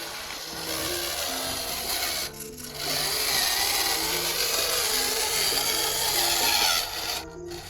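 A tool scraping and rasping on material in a steady stretch lasting a few seconds, breaking off briefly twice, with background music under it.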